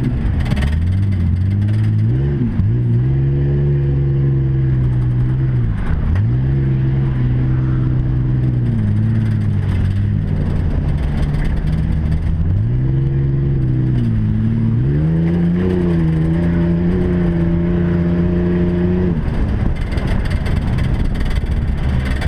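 Race truck engine accelerating and easing off again and again, its pitch climbing, holding and dropping every few seconds, as trucks race around a dirt track.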